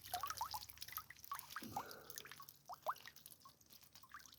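Water dripping and trickling off a minnow trap as it is lifted out of a creek. Many small plinking drops at first, thinning out toward the end.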